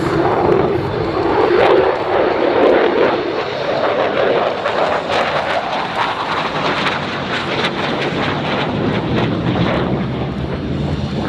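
Loud jet noise from the F-22 Raptor's engines, a broad steady rush with a rapid crackle that grows stronger from about four seconds in.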